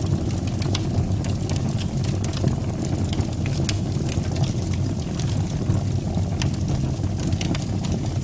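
Fire burning in a fireplace: a steady low rumble of flames with frequent small crackles and pops throughout.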